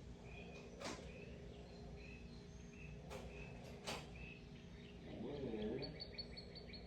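A bird chirping over and over in short high notes, breaking into a quick trill near the end. A few sharp clicks and knocks from hand-tool work fall in between.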